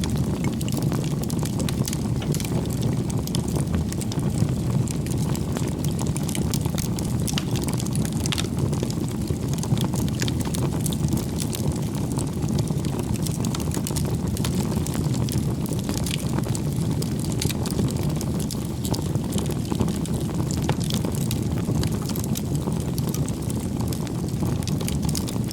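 Wood campfire burning: a steady low rumble from the flames, with frequent small sharp crackles and snaps from the burning firewood.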